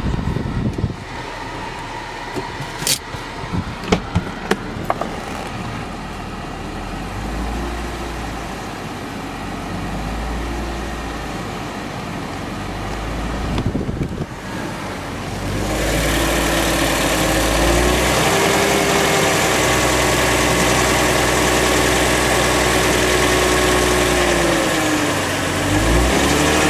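BMW E46 engine running cold, with a few sharp clicks early on. About halfway through it becomes louder and steadier, with a whining tone that rises and falls a little in pitch.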